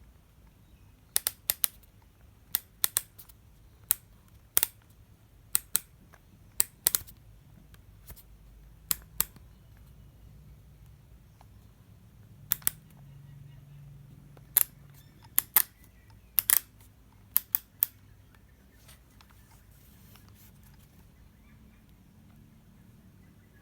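A series of sharp, short clicks, many in quick pairs, scattered over about seventeen seconds as the cordless drill/driver and its packaging are handled, then they stop.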